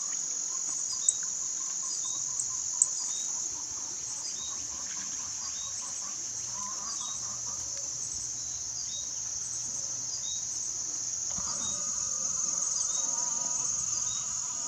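Outdoor backyard chorus: a steady, high insect drone with small birds giving short, high chip notes over and over, roughly every two-thirds of a second. Three sharp clicks come in the first three seconds, and a lower, longer animal call comes in about eleven seconds in and carries on to near the end.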